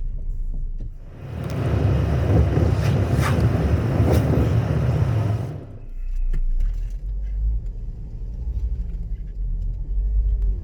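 Car rumble heard from inside the cabin, with a louder rushing noise that swells about a second in and fades after about four seconds.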